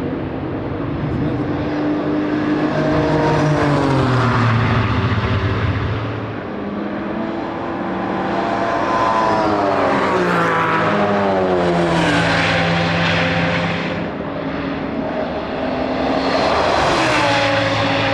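Race cars passing at speed one after another, the engine notes falling in pitch as each car goes by, with several loud passes over the few seconds.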